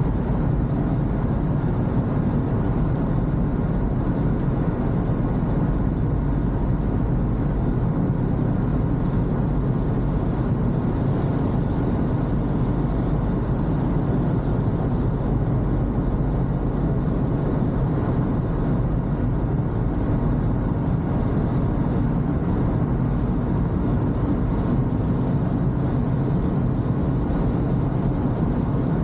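Toyota Corolla driving on a wet road: steady road and engine noise, mostly low in pitch, with no changes.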